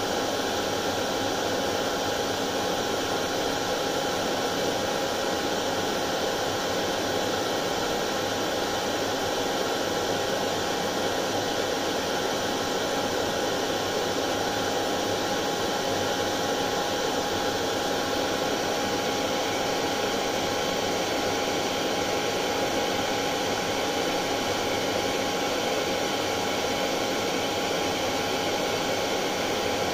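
Hair dryer running steadily without a break: an even rush of blown air with a faint steady tone in it.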